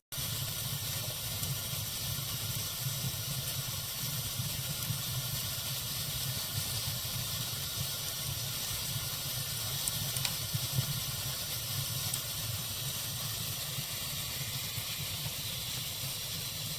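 Wood fire burning in a fireplace: a steady hiss over a low rumble, with a few faint crackles.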